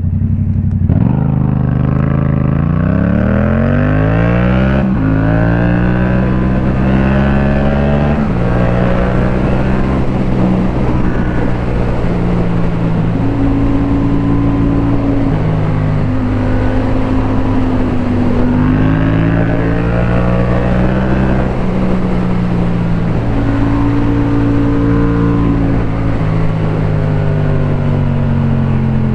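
Motorcycle engine accelerating hard, its pitch climbing and then dropping at a gear change about five seconds in, climbing again until about eight seconds in, then running at a fairly steady cruising speed with small rises and falls in revs.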